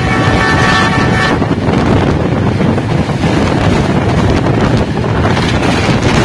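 Wind buffeting the microphone at a moving passenger train's open window, over the steady running noise of the train on the track. A horn with several steady tones sounds at the start and stops about a second in.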